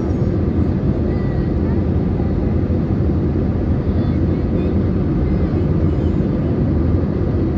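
Steady cabin noise inside an Airbus A320neo with CFM LEAP-1A engines: an even, deep rumble of the engines and the air rushing past the fuselage.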